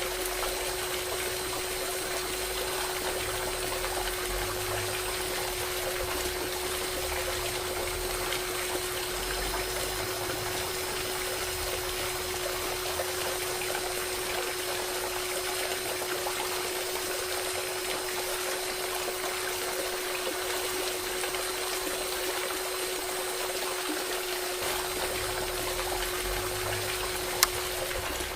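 Small electric motor of a homemade toy water pump running with a steady hum, with water splashing and trickling. A single sharp click comes near the end.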